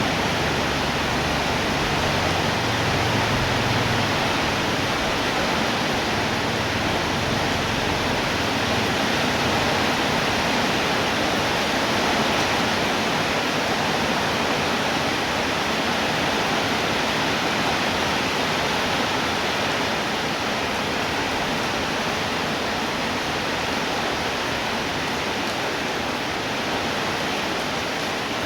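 Steady, heavy rainfall: a dense, even hiss of rain, with no single drops standing out.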